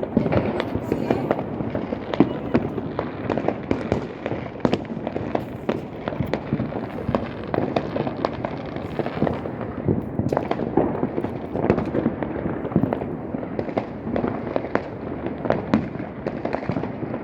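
Fireworks going off without pause: a dense, irregular run of bangs and crackles.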